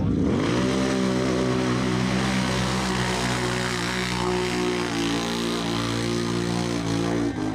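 ATV engine revving up and then held at steady high revs, with a brief drop near the end.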